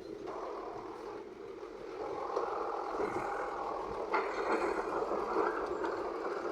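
Heavy earthmoving machinery working, an engine running under load that grows louder about two seconds in, with a sharp clatter about four seconds in.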